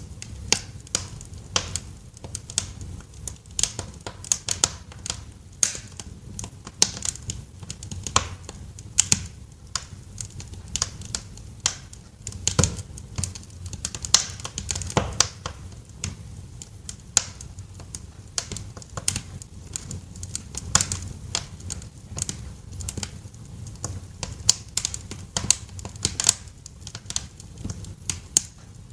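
Wood fire crackling in a fireplace: irregular sharp pops and snaps, several a second, over a steady low rumble of the burning flames.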